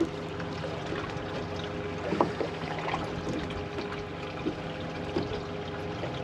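Steady motor hum with water trickling and lapping aboard a small fishing boat, with a few light knocks.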